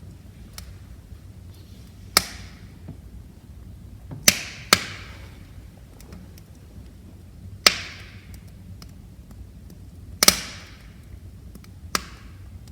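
Wood fire crackling: about six sharp pops, each trailing a short fading hiss, with fainter small ticks over the low rumble of the flames.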